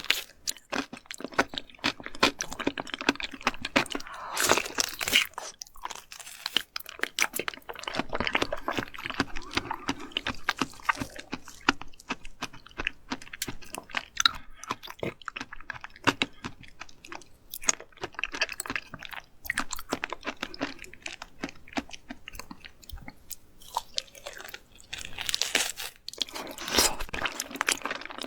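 Close-miked chewing of raw seafood sashimi, crunchy and wet with many small clicks, rising to louder crunching about four seconds in and again near the end.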